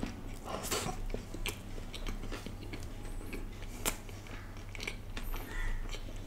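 Close-miked eating of a burger: biting and chewing, with scattered crisp clicks and a crackly crunch about two-thirds of a second in.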